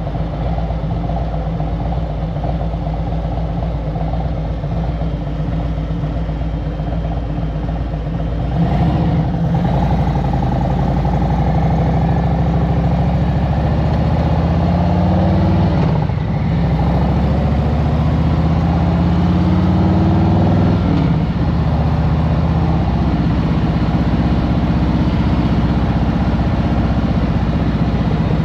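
2023 Harley-Davidson Road Glide Special's Milwaukee-Eight 114 V-twin running at a low, steady pace, then growing louder about a third of the way in as the bike accelerates. The pitch rises through a gear, drops at a shift, and rises again before settling into steady cruising.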